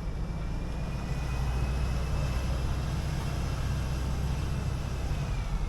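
City bus driving: steady low engine drone with road noise, and a faint high whine that holds its pitch and then falls near the end.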